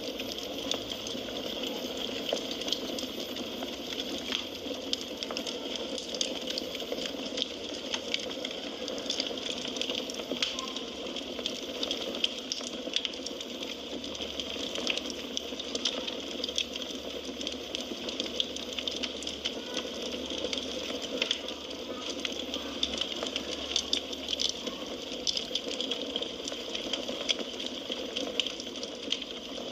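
Wood fire crackling: a steady hiss of burning logs with many small, sharp pops and snaps scattered throughout.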